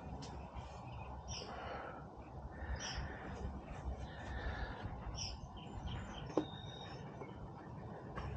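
Birds chirping in short, high calls every second or two over a steady low background noise, with one sharp click about six seconds in.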